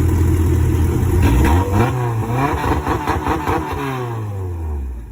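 A car engine runs loud and steady, then revs up and down several times from about a second in. Its pitch falls away and fades near the end.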